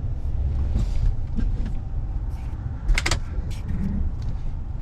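Pickup truck running at low speed while being turned around, heard from inside the cab as a steady low rumble. A sharp knock comes about three seconds in, with a few lighter clicks around it.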